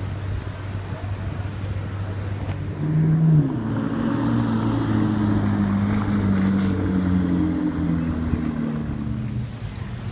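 A vehicle engine running with a steady low rumble; about three seconds in it gets louder and its pitch shifts up and down over several seconds before settling back.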